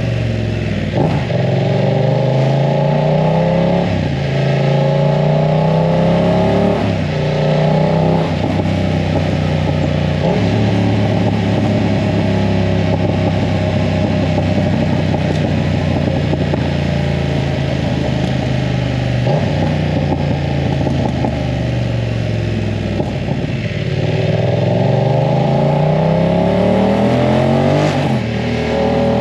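BMW F900 R's parallel-twin engine with a full aftermarket exhaust, accelerating hard. The revs climb and drop back at each upshift, about a second, four seconds and seven seconds in. It then holds a steady cruise for a long stretch, and near the end the revs fall and climb again.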